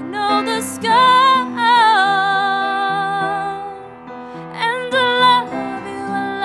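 Woman singing a slow, tender song, holding long notes with vibrato over soft instrumental accompaniment.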